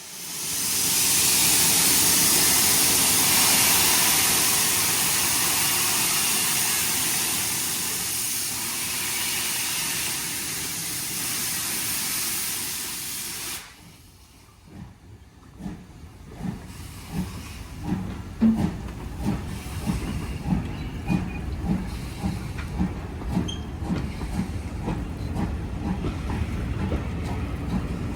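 Steam locomotive hissing loudly with escaping steam, the hiss cutting off suddenly about halfway through. Then come regular rhythmic beats, slow at first and quickening, as the train gets moving.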